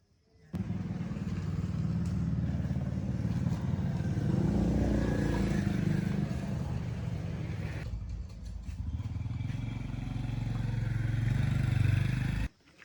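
A motor vehicle's engine running with a heavy low rumble, easing off about two-thirds of the way through and building again. It starts and stops abruptly about half a second in and just before the end.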